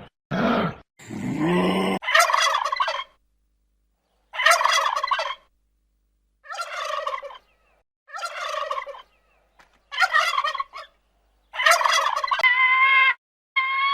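An animal calling: a few low grunts at the start, then six rattling calls about a second long, roughly every two seconds. A different, steadier call begins near the end.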